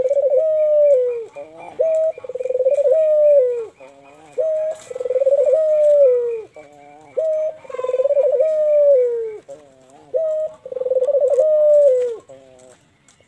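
Young ringneck dove (burung puter) cooing over and over: each phrase is a rolling, quavering coo followed by a long note that falls away. The phrase repeats about every three seconds, about five times.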